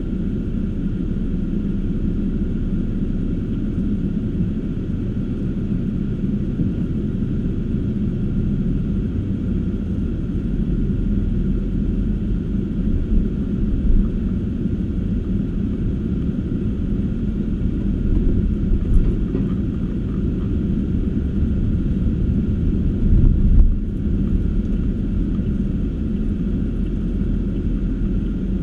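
Car driving, with a steady low rumble of engine and tyres on the road and a couple of brief louder bumps about halfway through and again later on.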